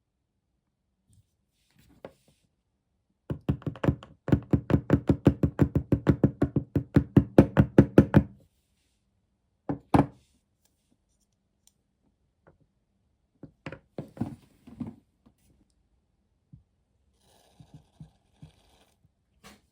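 A rapid, even run of hard knocks, about six a second for some five seconds, then a single loud knock and a few scattered lighter knocks and taps.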